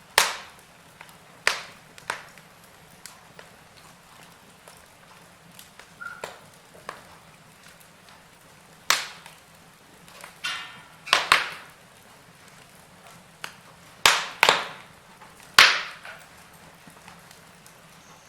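Wood fire in a fireplace crackling, with irregular sharp pops from the burning logs, several of them loud, over a faint steady hiss.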